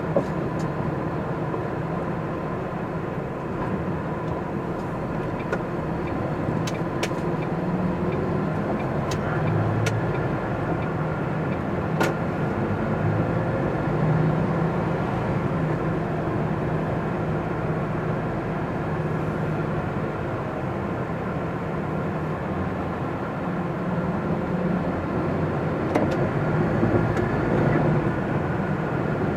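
MAN TGX articulated lorry's diesel engine and road noise while driving at a steady pace, heard from inside the cab, with a few faint clicks.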